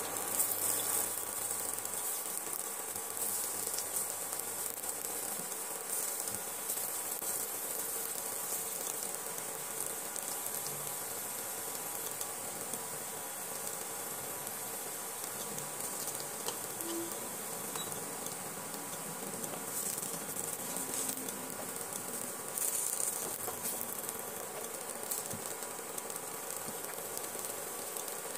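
Pieces of lentil dhoka frying in shallow oil in a nonstick kadai: a steady light sizzle. In the first few seconds there are a few soft taps as more pieces are laid into the pan. A faint steady hum runs underneath.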